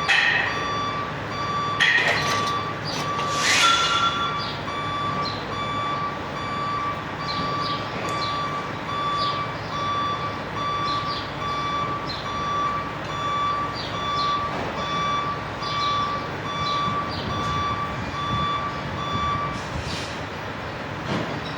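Vehicle reversing alarm beeping steadily, about two beeps a second, stopping near the end. A few sharp knocks sound in the first few seconds.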